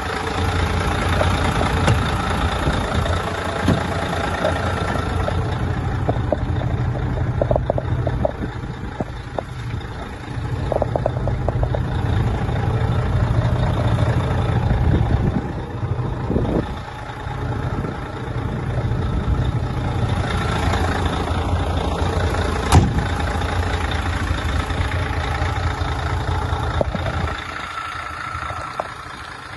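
Mercedes-Benz 4140 truck's V6 diesel engine idling with a steady low rumble, one sharp click about three-quarters of the way through, and the rumble dropping away near the end.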